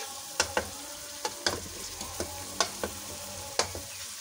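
Masala of garlic-ginger paste, tomato and spices sizzling in oil in a metal karahi while being fried down (the bhuna stage), stirred with a metal spatula that clicks and scrapes against the pan about seven times.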